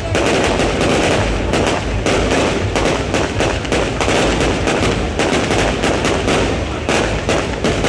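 New Year's fireworks going off in rapid, continuous succession: a dense crackle of many bangs and pops with no gaps.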